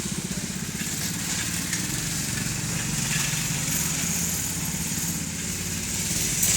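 A Baja minibike's small engine running at a fairly steady pitch.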